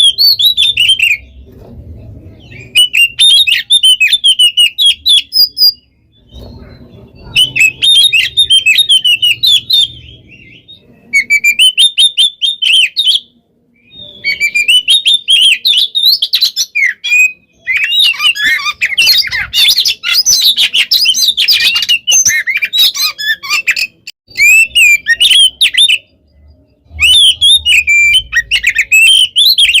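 Oriental magpie-robin (kacer) singing in full voice: fast, varied phrases of whistles, chips and rattling trills, in bursts of a few seconds separated by short pauses, with the longest, densest burst in the middle.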